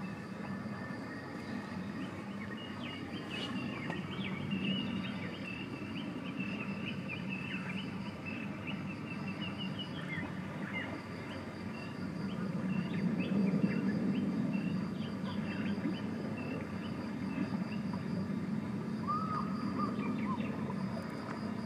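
Outdoor ambience: small birds chirping repeatedly over a steady low background murmur, with a faint steady high-pitched hum throughout.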